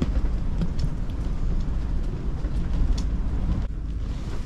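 Strong wind buffeting the microphone: a steady low rumble with a few faint clicks.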